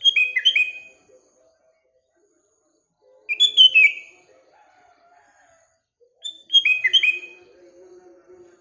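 Sooty-headed bulbul singing: three short phrases of quick whistled notes stepping down in pitch, about three seconds apart. Fainter, lower calls of other birds run underneath.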